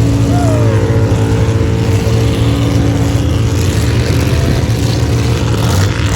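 Mud-bog truck engine held at high, steady revs with a deep exhaust rumble, after revving up just before. It eases off slightly near the end.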